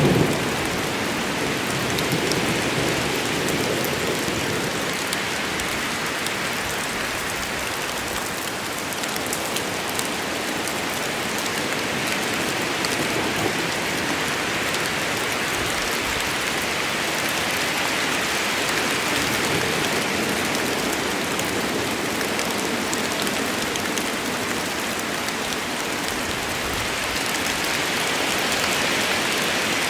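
Steady heavy rain falling in a forest, an even hiss with scattered drop patter. A low rumble of thunder dies away at the very start.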